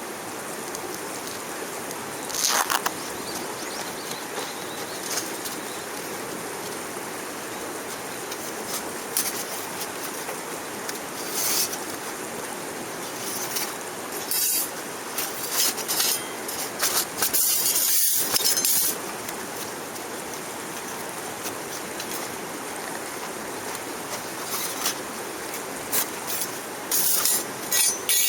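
Steady rushing of running water, with short scattered bursts of high crackling hiss, several bunched together around the middle and near the end.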